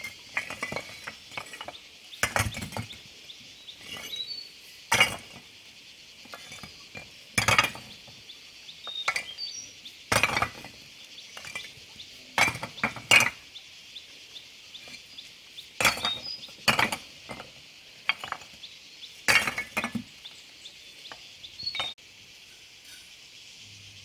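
Repeated sharp clinks and knocks of a hand tool striking brick, coming every one to three seconds and sometimes in quick clusters, over a steady high insect drone. The clinks stop near the end.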